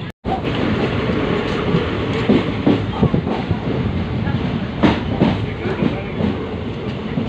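Indian Railways passenger train running with a steady rumble, its wheels clattering over the rail joints in irregular knocks.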